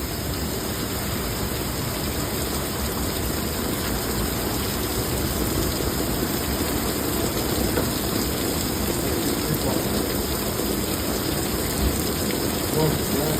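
Rain pouring down steadily in a severe thunderstorm, an even, unbroken rushing hiss.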